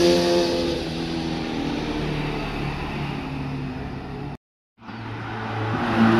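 Motorcycle engine passing close and fading as it rides away, then after a sudden half-second break another motorcycle approaching, growing louder near the end.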